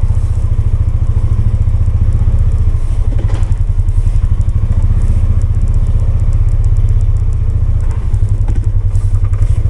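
Polaris 570 engine running steadily with a low, evenly pulsing note that holds without revving up or down.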